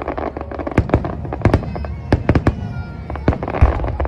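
Fireworks display bursting: a rapid, irregular series of sharp bangs and crackles, with a heavy, deep boom about three and a half seconds in.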